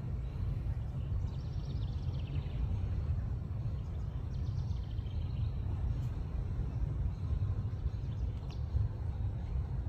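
Outdoor field recording with a steady low rumble, with faint high-pitched chirps from small birds about a second in and again around four to five seconds.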